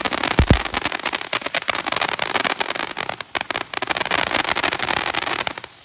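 Eternal Eruption multi-tube fountain firework spraying, with a dense, rapid crackle of popping stars and a dull thump about half a second in. The crackle cuts off near the end.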